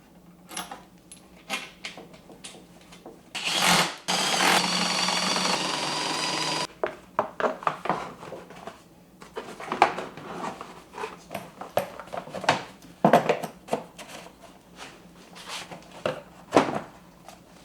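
A cordless power driver runs for about three seconds, steady in pitch, then stops abruptly, driving in a bolt. Short clicks and knocks of bolts and parts being handled come before and after it.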